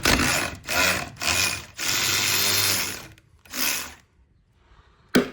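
Pneumatic wrench spinning off a torque converter nut, run in several short bursts and then one longer run of about a second, with a single sharp clack near the end.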